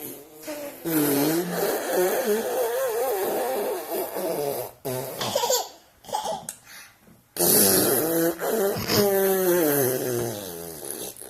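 Children laughing in two long stretches of wavering, pitched laughter, one starting about a second in and the other about seven seconds in.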